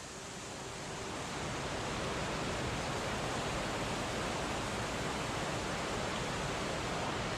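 Seljalandsfoss waterfall's steady rush of falling water, swelling over the first couple of seconds and then holding even.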